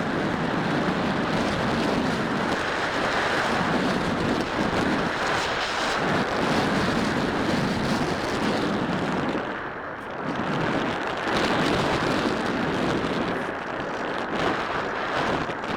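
Wind buffeting the microphone in gusts, a loud rumbling rush that eases briefly about ten seconds in.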